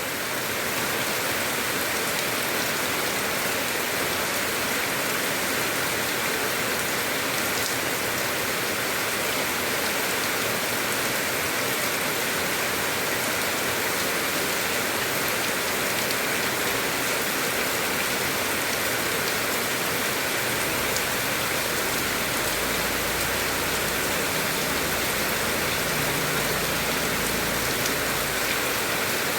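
Heavy rain falling steadily, a dense even hiss of drops. A low rumble sits underneath for several seconds past the middle.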